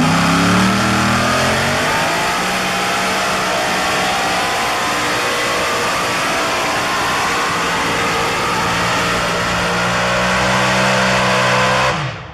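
Four Hemi engines of a modified pulling tractor running hard under load. The pitch drops over the first couple of seconds, then holds steady, and the sound cuts off abruptly near the end.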